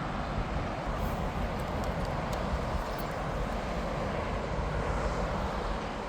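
Jet airliner engines running as a steady, even rush.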